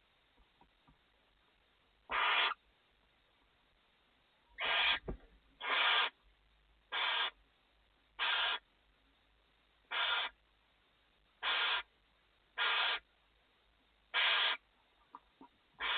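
Barn owl in the nest box giving a series of about ten harsh, hissing snore-calls, each under half a second long, repeated roughly every second and a half. Faint scratching clicks lie between the calls.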